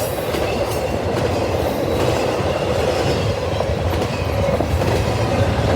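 Intermodal freight train's cars rolling past, a steady rumble of steel wheels on the rails.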